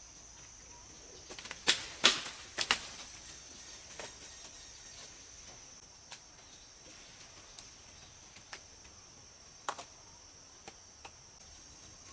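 Crickets or other insects giving a steady high drone. A few sharp knocks cut across it in a quick cluster about two seconds in, with fainter single clicks later on.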